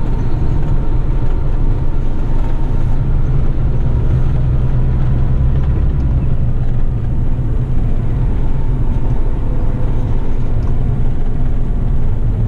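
Heavy rigid truck's diesel engine running with road rumble, heard from inside the cab while driving; a steady low drone.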